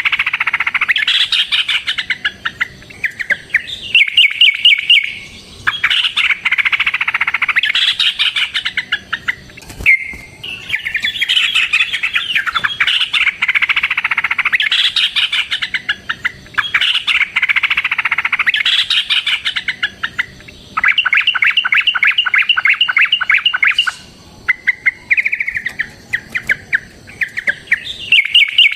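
Yellow-vented bulbul (trucukan) in full song: long, loud phrases of rapid chattering notes, some of them runs of fast, evenly repeated notes, with short pauses between phrases. This is the long, rapid, combative 'ropel' song kept as a lure call for other trucukan.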